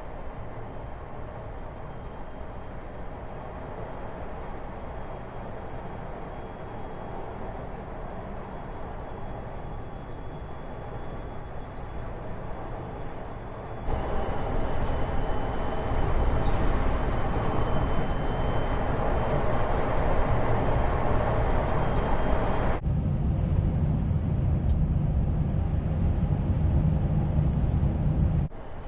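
Vehicle running noise, a steady rumble with no voices, in separate stretches that change abruptly: it grows louder about 14 s in, turns deeper at about 23 s, and drops back just before the end.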